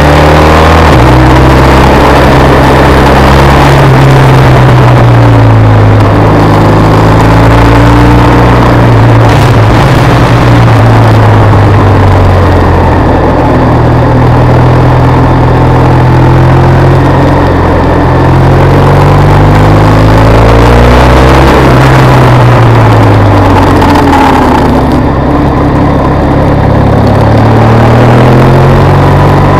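BMW R1200 RS boxer-twin engine under way, heard from onboard, its revs rising and falling again and again as the rider accelerates out of bends and eases off, working through second and third gear.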